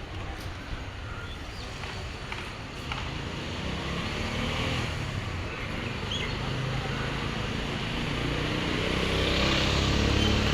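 A motor engine running, a steady low hum that grows louder over the second half.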